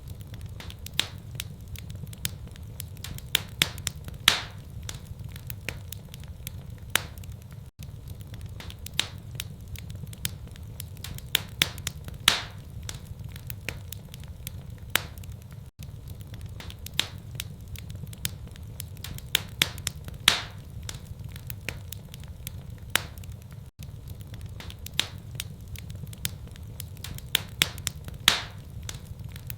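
Wood fire crackling in a fireplace: irregular sharp pops and snaps over a low rumble. The same stretch of about eight seconds repeats over and over, with a brief dropout where each loop restarts.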